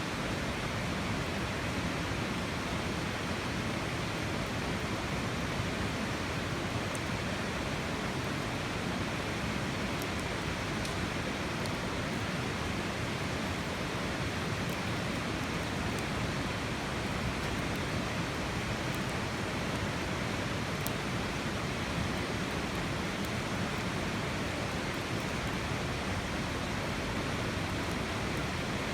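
Steady, even rushing noise with no change, like flowing water or wind, with a few faint ticks.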